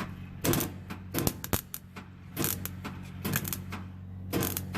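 Welder laying short tack welds on a steel exhaust box: about six brief bursts of crackle a half-second to a second apart, over a steady electrical hum.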